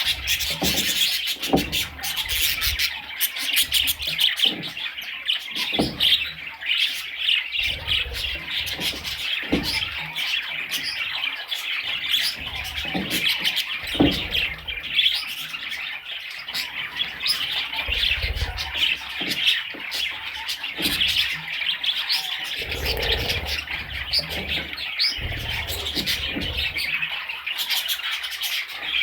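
Budgerigars chirping and chattering in a dense, continuous flurry of quick high calls, with scattered knocks and low thumps among them.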